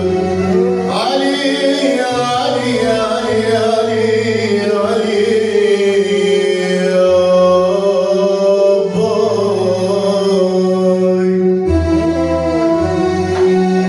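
A man singing an Arabic song with melismatic ornaments over a sustained instrumental accompaniment.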